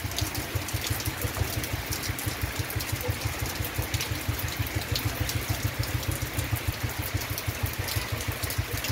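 Steady rain falling, with many fine drop ticks over an even hiss, under a fast, even run of low thumps close to the microphone, several a second, which is the loudest sound.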